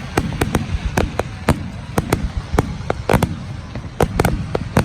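Fireworks display: a quick, irregular series of sharp bangs and cracks over a continuous low rumble, with a short crackling burst about three seconds in.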